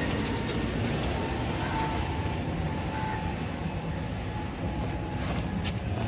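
Steady background rumble and hiss, with a few faint clicks.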